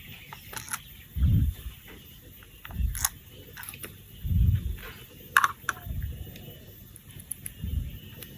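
Hands handling plastic toy pieces: scattered sharp clicks and taps, with about five dull low thuds against the surface they are worked on.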